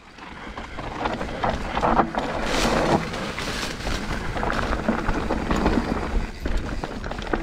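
Mountain bike riding fast down a dry dirt trail: wind rushing over the microphone, tyre noise on the dirt, and the bike rattling over bumps. It gets louder about two seconds in.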